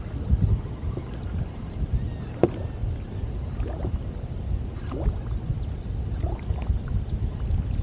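Water lapping and splashing against a kayak hull under a steady low rumble, with scattered small knocks, one sharper about two and a half seconds in.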